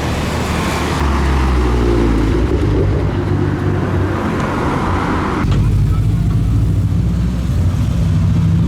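Car engines running as cars drive past. About five and a half seconds in, the sound changes sharply and a deeper, steady engine note takes over.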